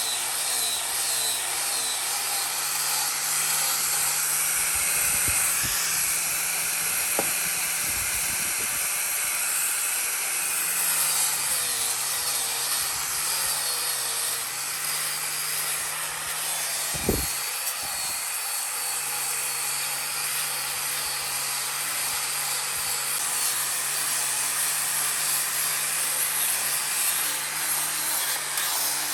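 An electric power tool running steadily while working wood, with a few knocks about a quarter of the way in and again just past halfway.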